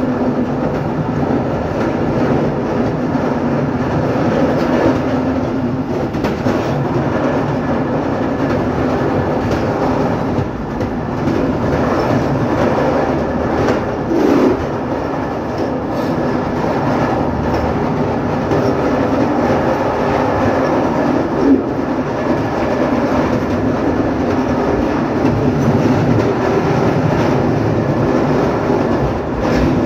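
Train running along the track, heard from aboard: a steady rumble of wheels on rails with occasional clicks over rail joints, one sharper knock about twenty-one seconds in.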